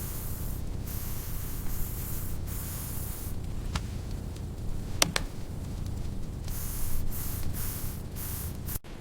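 Steady rain noise, with a few sharp crackles about four and five seconds in. It cuts off abruptly near the end.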